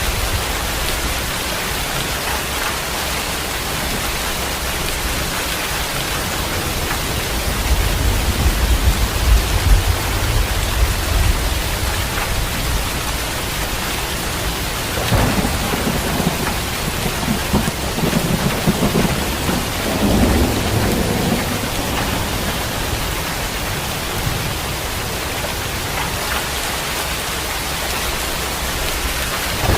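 Heavy, steady rain with rolls of thunder rumbling low, one about a quarter of the way in and another longer roll past the middle.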